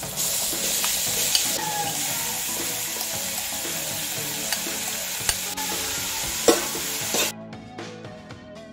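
Raw ground beef sizzling in hot oil in a wok as a metal spatula stirs it, with a few sharp scrapes and taps of the spatula against the pan. The sizzle cuts off abruptly near the end, leaving quiet background music.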